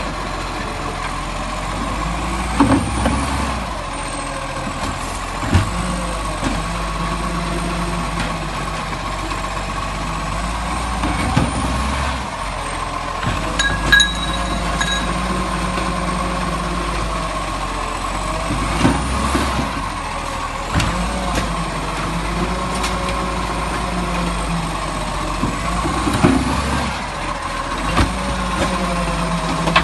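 Garbage truck running steadily with a constant whine. A knock and a hiss recur about every seven seconds, and a short beep sounds about halfway through.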